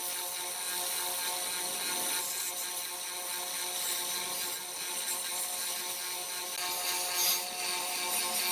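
Small electric power tool running steadily at an even pitch, with a dense scraping hiss over the motor's whine as it works on a part.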